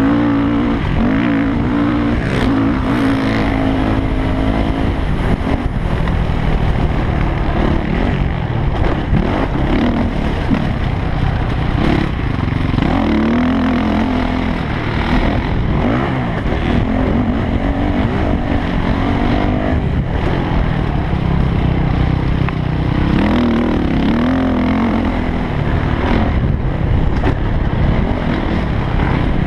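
Yamaha YZ450F four-stroke single-cylinder motocross bike engine running hard, its revs climbing and dropping again and again as it is ridden.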